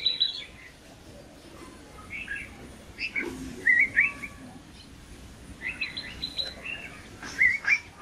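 Small birds chirping and twittering in short scattered bursts of high, quick notes, some rising.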